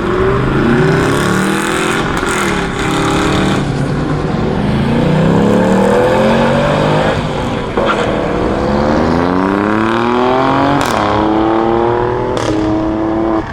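High-performance car engine accelerating hard, its pitch climbing and then dropping back with each upshift, several times over, with a few sharp cracks at the shifts.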